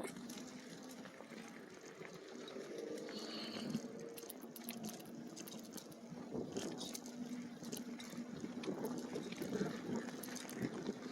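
E-bike riding along a dirt trail: a faint steady motor whine that comes and goes, over tyre noise with many scattered clicks and crackles.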